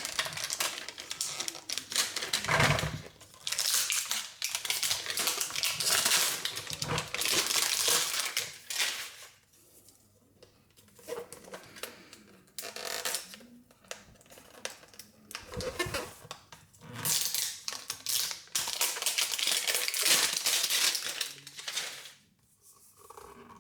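Plastic packaging of Mini Brands surprise toys crinkling and tearing as it is handled and opened, in several bursts of rustling with short pauses between them.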